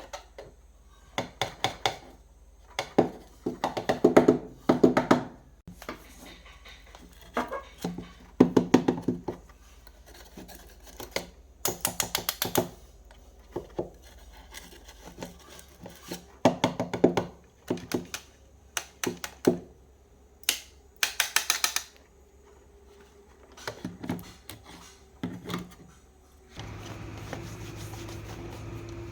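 Irregular clusters of clicks, knocks and scraping, as of hard objects being handled and set down. Near the end a steady low hum starts.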